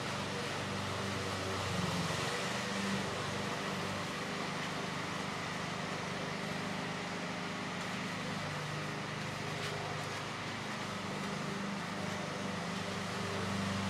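A steady low mechanical hum under an even hiss of background noise.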